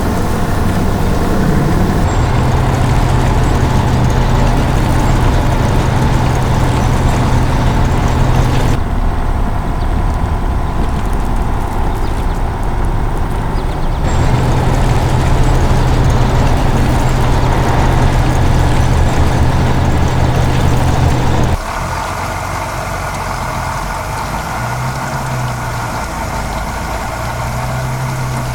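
Heavy construction-machine engine running steadily, a low hum that changes abruptly several times as the sound cuts between takes.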